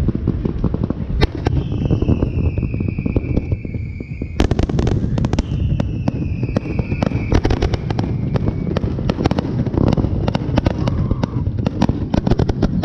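Fireworks going off nonstop in a dense run of cracks and bangs, with two long whistles that fall slowly in pitch, one after the other.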